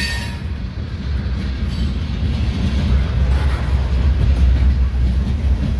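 Freight cars (covered hoppers and lumber flatcars) rolling past, a steady low rumble of steel wheels on the rails.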